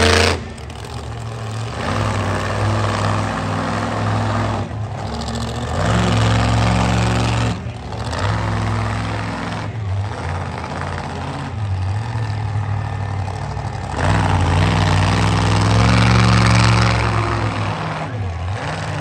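Monster truck engine revving hard in repeated surges, the pitch climbing and dropping as the throttle opens and closes, loudest about six seconds in and again from about fourteen to seventeen seconds.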